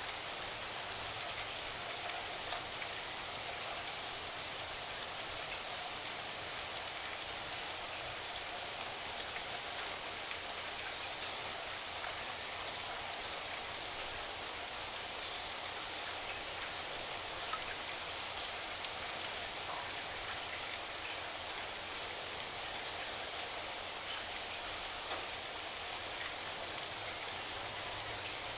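Steady rain: an even wash of sound with scattered small drop ticks, unchanging throughout.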